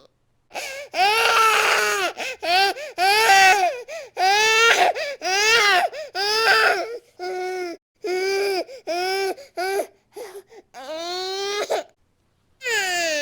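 A baby crying angrily in a rapid series of short, high-pitched wails with brief catches of breath between them. The cries thin out toward the end, and after a short pause a long, steady wail begins at the very end.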